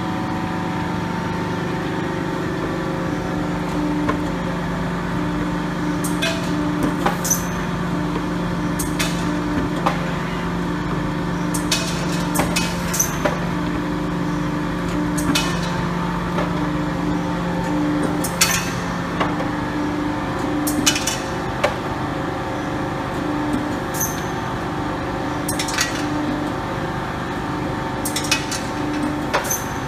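120-ton CNC hydraulic punching machine running a punching program: a steady hydraulic-unit hum with a whine that switches on and off, and sharp snaps of punch strokes every second or two.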